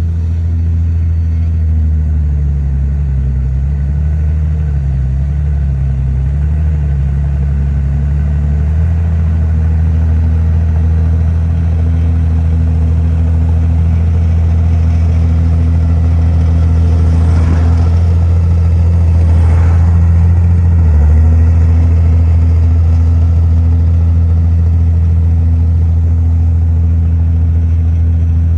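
Heavy diesel engine of earthmoving machinery running steadily and loud, its pitch wavering under changing load in the first several seconds. Two brief scraping or clanking noises come around the middle.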